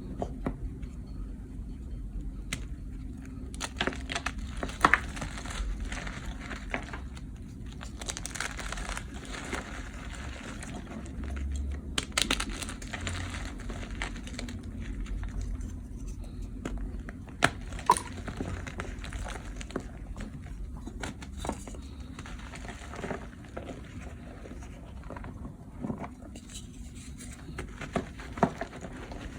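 Blocks of dyed gym chalk being crushed and crumbled by hand: irregular crunching and crackling with sharper snaps now and then.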